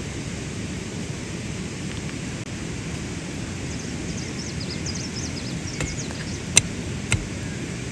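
Steady low outdoor rumble, with a run of short high chirps around the middle and three sharp snaps or knocks in the second half, the second one the loudest.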